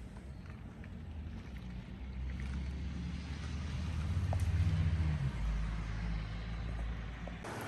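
Hail and rain falling steadily, with a few single stones clicking, under a low rumble that swells about halfway through and then eases.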